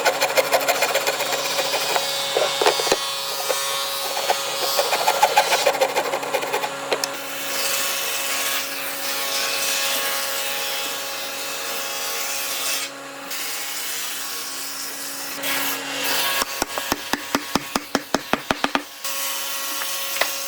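Wood being worked by hand, a rough rubbing and rasping over a steady faint hum. Near the end it gives way to a quick run of sharp taps on wood, about five a second.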